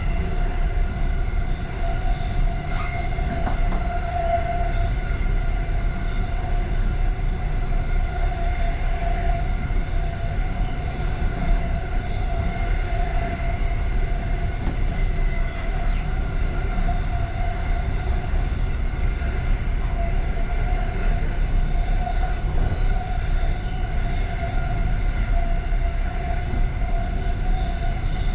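Passenger train running at a steady speed, heard from inside its last carriage: a continuous low rumble of the wheels with a steady whine held over it and a few faint clicks.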